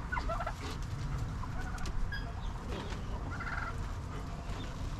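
Domestic turkeys calling: short chirping calls near the start and a brief rattling call about three and a half seconds in, over a steady low rumble.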